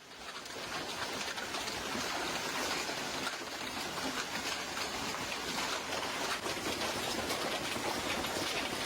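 Floodwater rushing in a steady, even flow, fading in over the first second.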